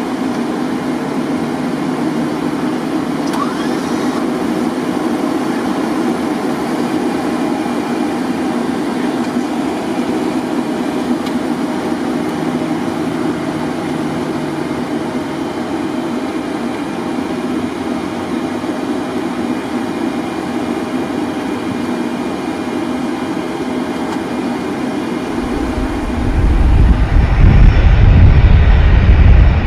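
Steady interior noise of a Boeing 737 taxiing after landing: engine and air-conditioning hum. About 26 seconds in, a much louder low rumble takes over.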